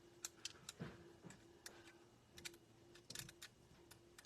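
Faint, irregular small clicks and ticks as die-cut cardstock pieces are poked out of a metal cutting die.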